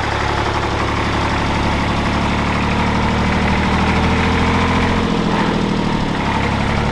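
1957 Porsche P133's three-cylinder air-cooled diesel engine idling steadily, its low note shifting slightly about five seconds in.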